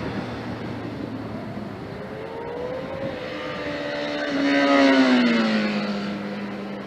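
Sport motorcycle passing by at speed: the engine note grows louder as it approaches, peaks about five seconds in, then drops in pitch as it moves away.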